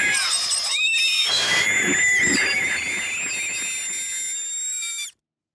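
Cartoon sound effect of an ear-splitting, high-pitched vocal shriek: several held high tones wavering together over noise, cutting off suddenly near the end.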